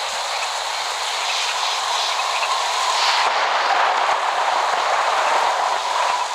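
Steady heavy rain, an even hiss with a faint steady tone running under it toward the end; no thunder.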